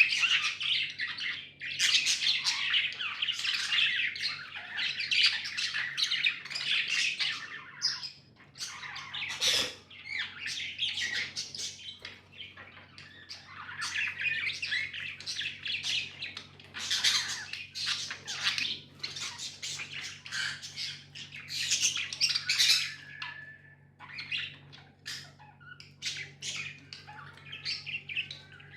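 A group of budgerigars chirping and chattering almost without pause, with harsher squawks mixed in and a few brief lulls. A faint steady low hum runs underneath.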